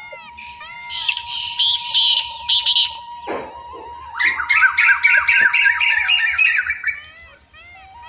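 Birds calling: loud harsh squawks about a second in, then a dense run of rapid chattering calls from about four to seven seconds, over a steady series of short, arching chirps.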